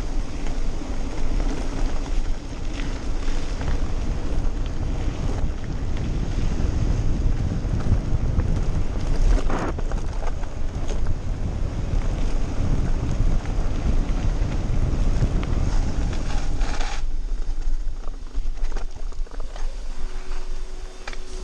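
Wind rushing over an action camera's microphone during a fast mountain-bike descent, mixed with the bike rattling over rough trail in short clicks and knocks. The rush eases about 17 seconds in.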